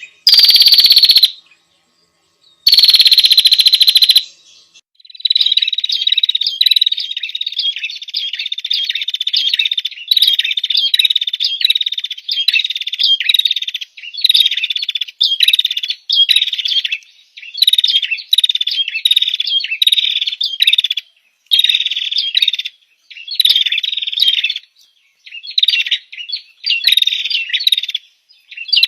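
A small songbird singing from a masteran tutor recording made for training competition songbirds. In the first four seconds come two very loud high calls, then a run of short high phrases repeated about once a second.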